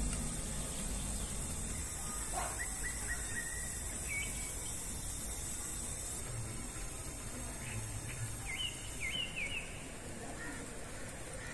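A bird chirping in quick runs of short notes, about two seconds in and again about eight seconds in, over a steady hiss.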